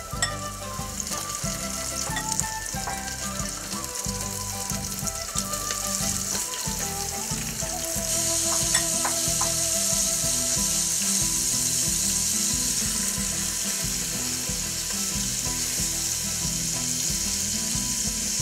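Flour-dredged chicken chunks frying in about half an inch of hot vegetable oil in a pot, a steady sizzle that grows louder about eight seconds in as more pieces go in.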